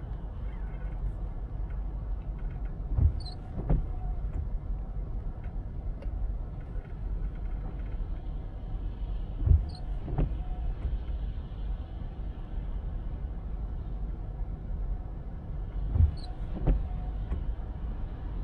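Steady low rumble of a car driving on a wet road, with three pairs of short thumps about six and a half seconds apart. Each pair is under a second apart with a faint squeak between, fitting windshield wipers on an intermittent setting sweeping across and back.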